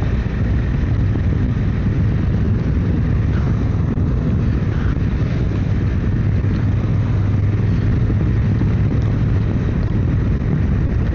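Motorcycle engine running steadily at a slow cruise of about 35 mph, with wind and road rush. The low engine note and the noise stay even throughout.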